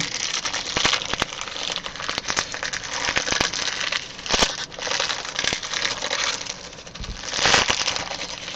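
Trading card pack wrapper being torn open and crinkled by hand: a steady run of crackling and small clicks, with louder rustles about halfway through and again near the end.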